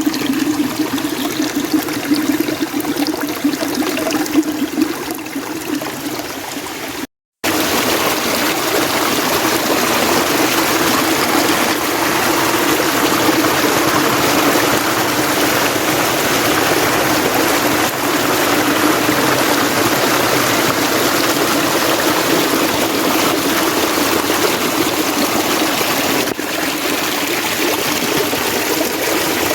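Mountain stream water flowing in a steady rush. About seven seconds in the sound drops out completely for a split second, then returns louder and fuller.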